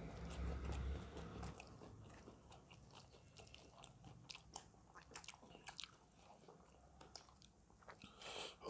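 Chewing and biting into crispy fried chicken: quiet, scattered crunches and mouth clicks. There is a low rumble in the first second or so, and a brief louder sound near the end.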